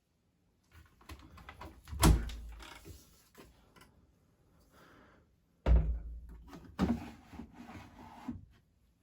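Handling of a Siemens WM14T490 front-loading washing machine's door: two heavy thunks about three and a half seconds apart, each followed by rustling and light clattering.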